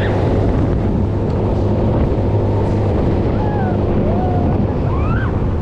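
Fairground thrill ride in motion, heard from on board: a loud, steady rumble and wind buffeting the microphone, with faint shouts that rise and fall in pitch scattered throughout.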